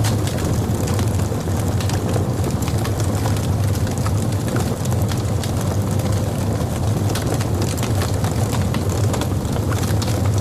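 Wood logs burning in a fireplace: a steady low rumble of the fire with frequent small crackles and pops scattered through it.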